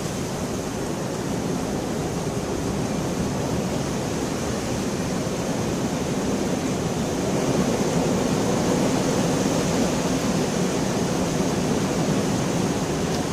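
Steady heavy rain falling, a dense continuous hiss that grows a little louder about halfway through.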